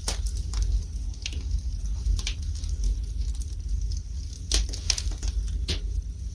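Wood fire burning in a fireplace, crackling with irregular sharp pops over a steady low rumble. The strongest pop comes right at the start, and a cluster of pops falls between about four and a half and six seconds in.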